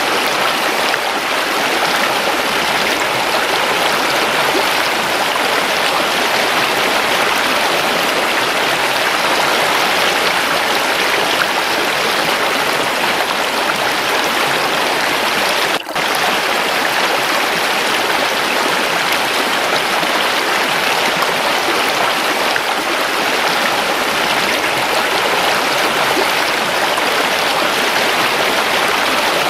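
Running water of a waterfall rushing steadily, a dense even splashing hiss. It drops out for an instant about halfway through.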